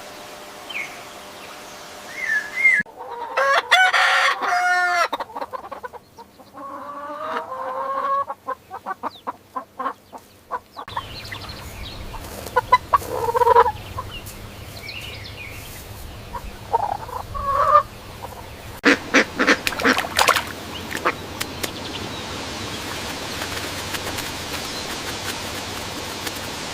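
A run of short farm-animal sound clips cut one after another, mostly poultry calls: chicken clucking and a rooster crowing.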